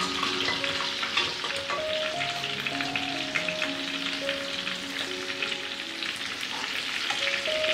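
Hot oil sizzling with small crackles as food fries: whole spices and dried lemons in olive oil, and marinated chicken pieces shallow-frying in oil and butter. A soft melodic background tune plays over it.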